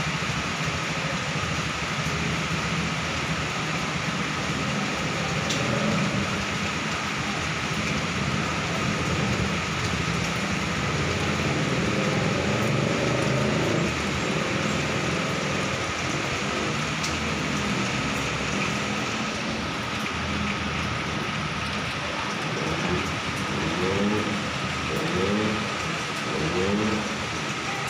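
Steady heavy rain with the low rumble of heavy traffic on a jammed highway beneath it, and a thin steady high tone throughout. Near the end, a few short rising sounds.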